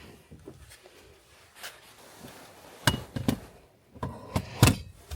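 A handful of separate knocks, taps and clicks, a few loud ones about three seconds in and again near the end, over faint background noise.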